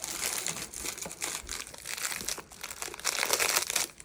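A plastic biscuit packet crinkling and rustling as it is handled, in a dense run of irregular crackles.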